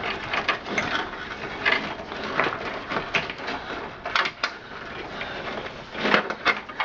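Irregular clicking and rustling of computer cables and plastic connectors being handled and pulled loose inside a desktop PC case.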